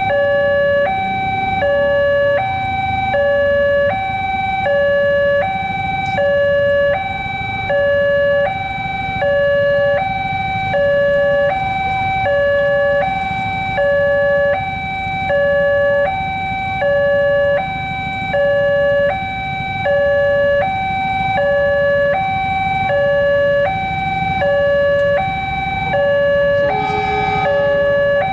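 Railroad level-crossing alarm sounding continuously: an electronic two-tone chime with a high and a low note alternating about every three-quarters of a second, over a low rumble.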